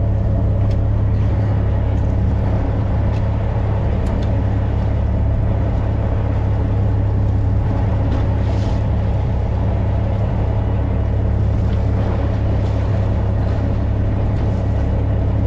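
Fishing boat's engine running steadily, a loud, even, low drone.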